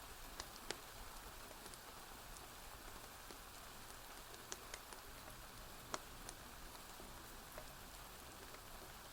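Gentle rain falling in a steady soft hiss, with a wood fire giving a few sharp, scattered crackles and pops, the loudest about six seconds in.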